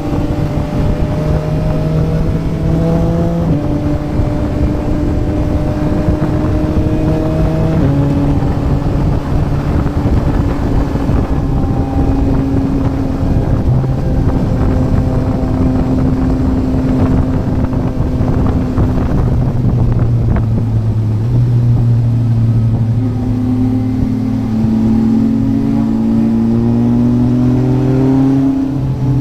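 Yamaha MT-09's three-cylinder engine through a Yoshimura R11 exhaust under way, with wind rushing over the microphone. It climbs in pitch and upshifts about three and a half seconds and eight seconds in, holds a steady cruise, then eases off and pulls up again before another shift near the end.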